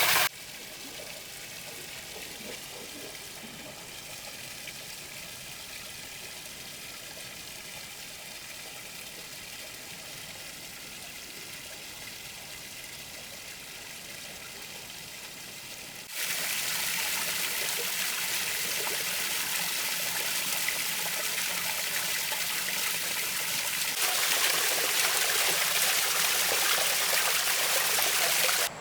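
Water running and trickling steadily from a small stone artificial waterfall, stepping suddenly louder about halfway through and again near the end.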